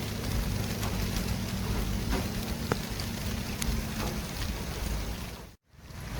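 City traffic ambience: a steady wash of road noise with a low rumble and a few faint clicks. It cuts out suddenly for a split second about five and a half seconds in, then fades straight back.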